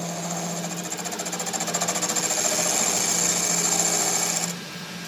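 A power tool running with a fast, even hammering rattle and a high whine, building in loudness, then cutting out briefly about four and a half seconds in before starting again.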